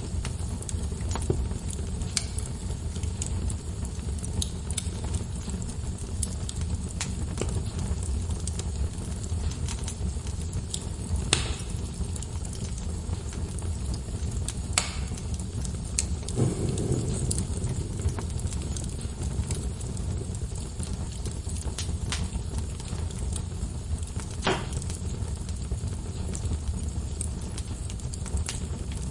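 Wood fire burning in a fireplace: a steady low rumble of flames with irregular crackles and sharp pops from the logs, a few of them louder than the rest.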